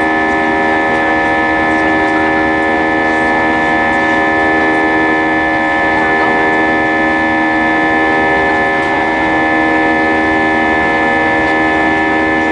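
Airbus A320 jet engines running, a loud steady drone with several steady whining tones over the roar.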